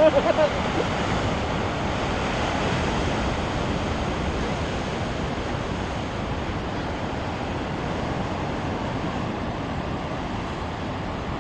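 Big ocean swells breaking on a rocky shore: a steady, even rush of surf.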